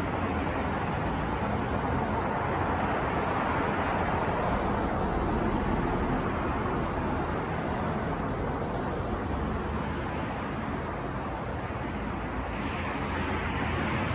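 Steady city traffic noise: a constant wash of many vehicles with no single one standing out. It eases a little about ten seconds in and swells again near the end.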